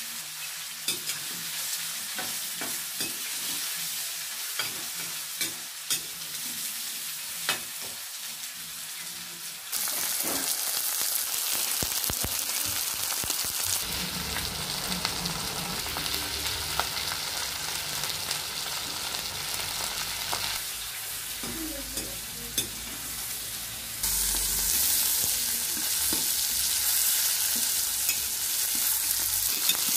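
Chunks of meat frying and sizzling in a small metal wok, with a metal ladle clicking and scraping against the pan as it is stirred. The sizzle gets louder about a third of the way in and again near the end.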